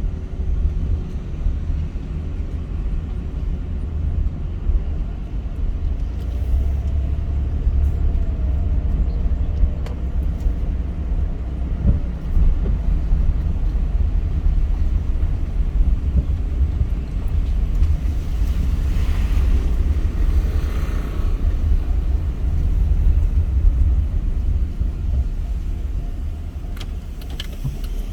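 A car being driven: a steady, low rumble of engine and tyres on the road, with a brief swell of higher hiss about two-thirds of the way through.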